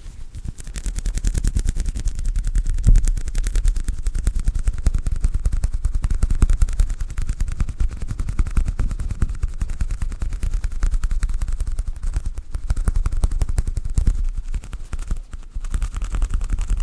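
Hair scrunchie being scrunched and rubbed close to the microphone: a dense, rapid crackling with low thuds mixed in.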